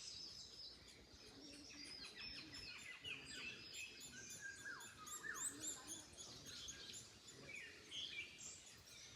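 Several small birds chirping and singing at once, with many short, quick notes and falling whistles, faint against a light background hush.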